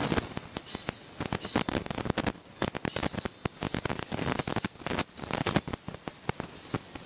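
Freight train rolling past: steel wheels clacking and clunking irregularly over the rail joints, with a thin, steady, high-pitched wheel squeal running under the knocks.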